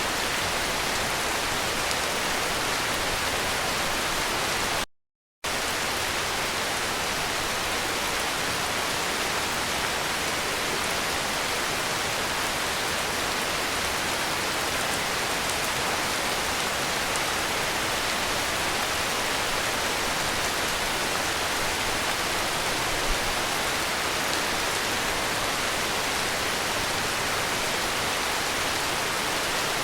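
Heavy rain falling in a steady, even hiss. About five seconds in it cuts out to complete silence for about half a second.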